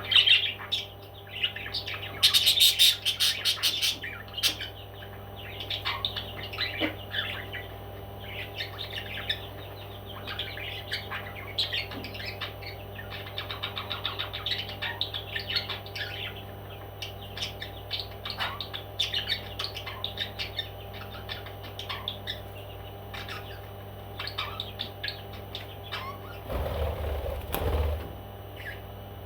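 Pet parrots chirping and chattering in short, quick calls, with a loud harsh screech about two seconds in. Near the end there is a brief rustling noise, over a steady low hum.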